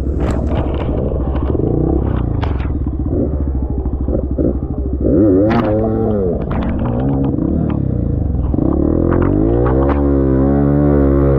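Trail motorcycle engine running and revving unevenly, its pitch rising and falling repeatedly, with scattered knocks and clatter.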